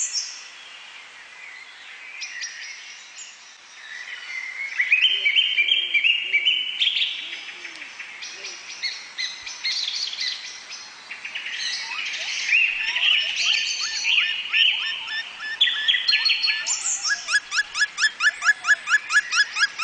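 Several forest birds calling and singing together, overlapping chirps and trills. Near the end, one bird's rapid run of sharp repeated notes, about four a second, becomes the loudest sound.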